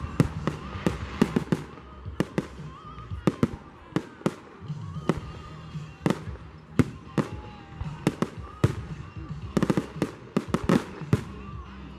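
Fireworks exploding: an irregular string of sharp bangs and crackles, with a quick volley of several bangs near the end.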